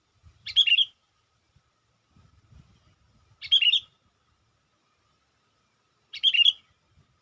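Sooty-headed bulbul (kutilang) lure call: the same short, bright phrase of quick notes repeated three times, about every three seconds, used to call wild bulbuls.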